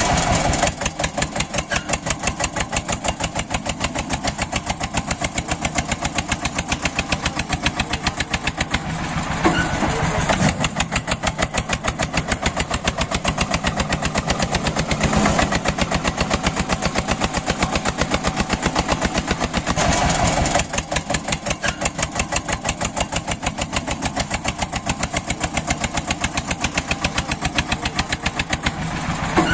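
Eicher tractor's diesel engine running steadily, its exhaust beating in an even, rapid run of separate pulses.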